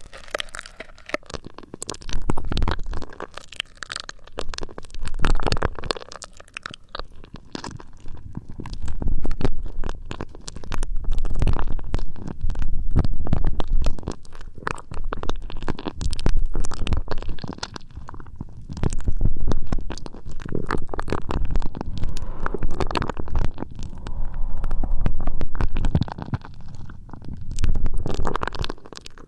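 ASMR ear massage: hands rubbing over an ear-shaped microphone, making muffled rumbling swishes with crackles. The swells come and go in a slow rhythm, about one every two to three seconds.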